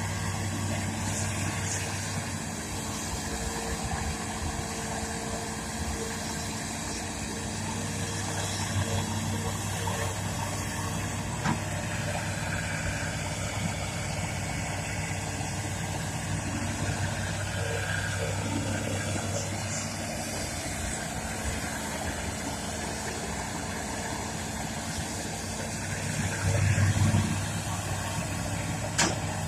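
Isuzu 6BG six-cylinder diesel of a Hitachi Zaxis200-5G excavator running steadily, with a brief rise in engine sound near the end and a couple of sharp clicks.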